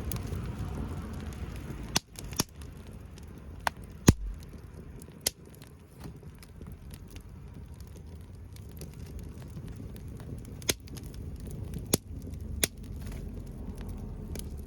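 Wood fire crackling, with sharp, scattered pops a second or several apart, the loudest about four seconds in, over a low steady rumble.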